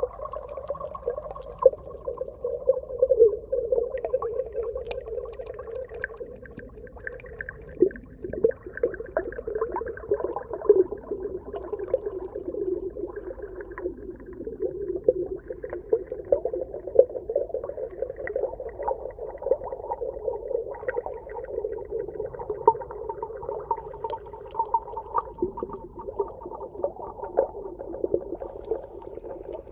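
Underwater ambience: a continuous low murmur dotted with dense crackling clicks and pops, as heard through a hydrophone on a reef.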